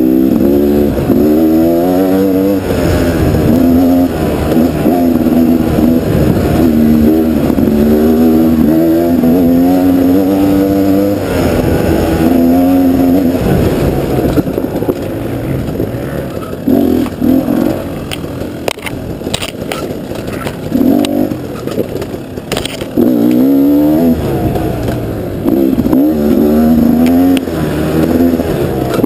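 KTM dual-sport motorcycle engine on the trail, revving up and easing off again and again as the throttle is worked, its pitch climbing in short runs through the gears. About halfway through it runs lower and more broken for several seconds, with scattered sharp knocks, before revving up again.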